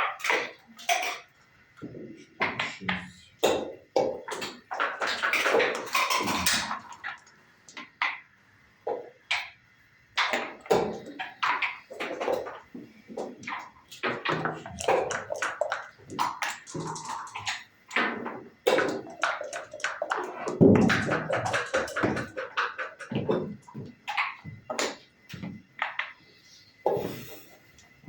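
Backgammon being played: checkers clacking as they are moved and set down on the board, and dice rattling and bouncing, in quick irregular runs of sharp clicks.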